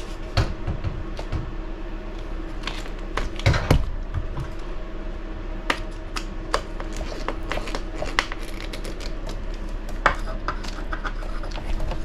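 Scattered light clicks and clinks of small screws, RC car parts and hand tools being handled and set down on a workbench, with a few louder knocks about three and a half seconds in. A faint steady hum runs underneath.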